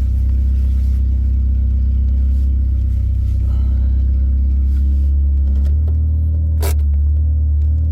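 1999 Honda Civic's four-cylinder engine idling steadily, with a brief change in its note about two-thirds of the way through and a short sharp click soon after.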